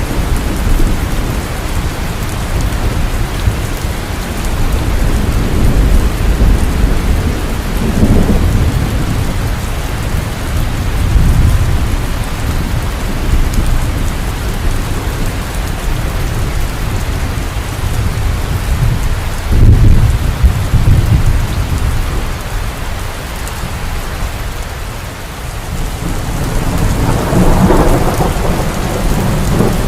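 Heavy rain falling steadily, with rolls of thunder rumbling low several times, loudest about twenty seconds in and again near the end.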